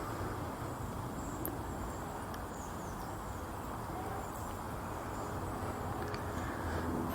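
Outdoor park ambience: a steady low background rumble with a few faint, brief high bird chirps.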